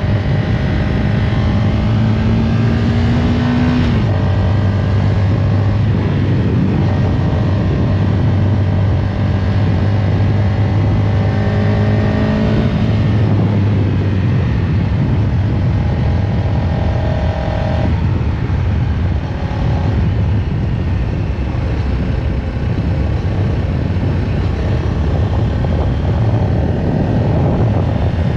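CFMoto CLX-700 Heritage's parallel-twin engine running steadily while under way. Its pitch climbs slowly and falls back a few times, about four, thirteen and eighteen seconds in.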